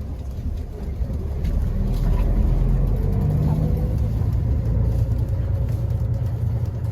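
Bus engine and road rumble heard from inside the bus, a low rumble that builds over the first couple of seconds and then holds steady, with a faint tone that rises slightly as the bus picks up speed.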